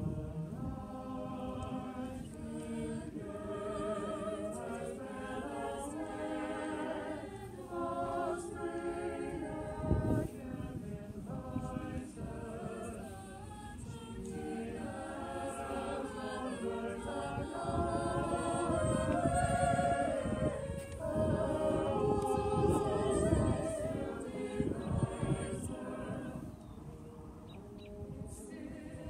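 A small choir singing in parts, holding chords that shift every second or so. It swells louder past the middle and grows softer near the end.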